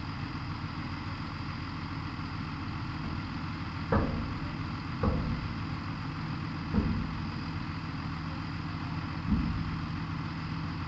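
John Deere 7530 tractor's six-cylinder diesel engine running steadily, with four loud thumps about halfway through.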